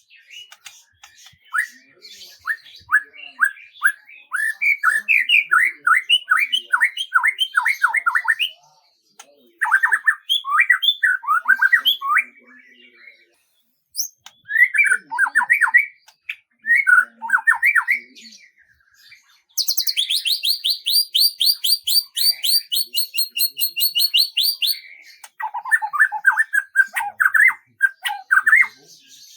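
Songbirds singing in a series of phrases, each a quick run of repeated down-slurred notes, several a second. About two-thirds of the way through comes a higher, rapid trill lasting about five seconds.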